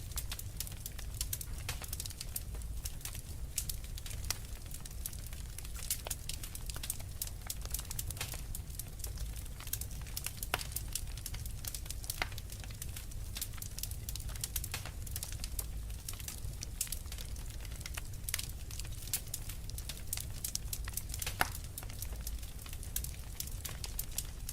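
Wood fire burning with a steady low rumble and constant crackling, with a few louder pops from the burning logs.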